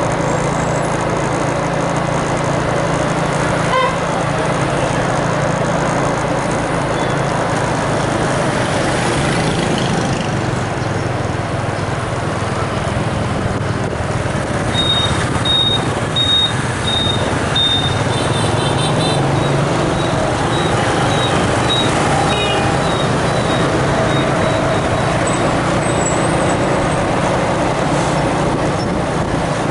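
A road vehicle's engine running steadily amid traffic noise, with a row of about six short high beeps about halfway through.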